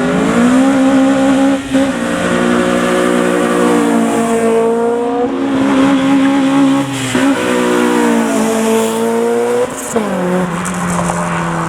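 A modified Japanese car's engine held at high, nearly steady revs, dipping briefly twice and settling lower near the end, with tyre squeal: a car driven sideways out of the meet.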